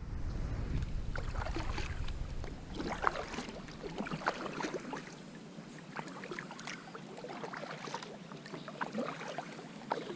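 Kayak paddling: the paddle blades dipping and splashing, with water dripping, in irregular strokes. A low wind rumble on the microphone fades out after about four seconds.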